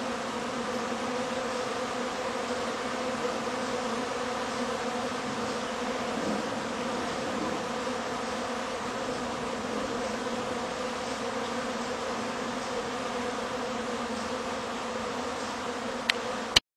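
Honey bees buzzing in a steady drone as they fly in and out of a busy hive entrance. Two sharp clicks sound just before the end.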